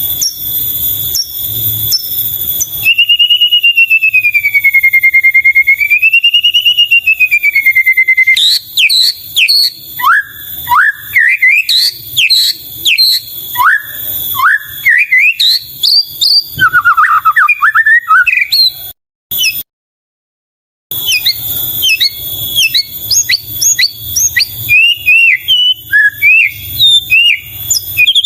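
White-rumped shama (murai batu) singing: a long, wavering whistled note, then a quick run of short rising and falling whistled phrases, broken by a brief silent gap about two-thirds of the way through.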